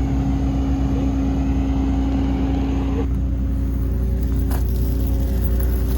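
A vehicle engine running steadily, a low even hum with a held tone; about three seconds in the higher hiss drops away.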